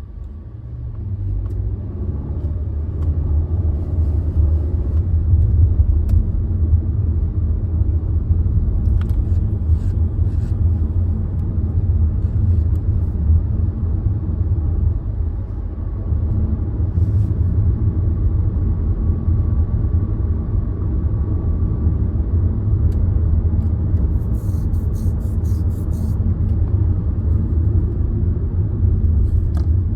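Car engine running with a deep, low sound; it builds over the first few seconds and then holds at a steady level.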